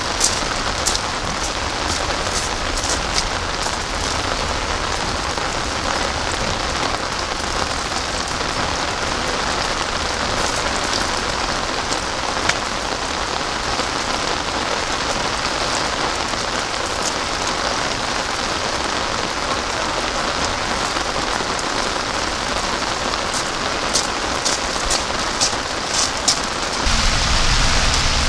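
Heavy rain pouring steadily, with sharp taps of individual drops striking close by. Near the end the sound turns deeper and fuller.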